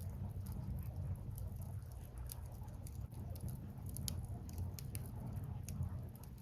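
Burning firewood crackling, with sharp irregular pops over a steady low rumble.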